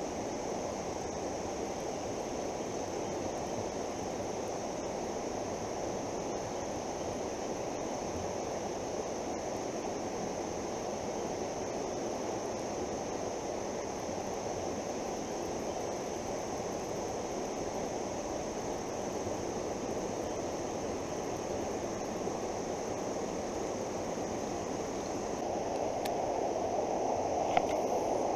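Fast-flowing, flood-swollen creek water rushing steadily. It grows a little louder near the end, where a single sharp click sounds.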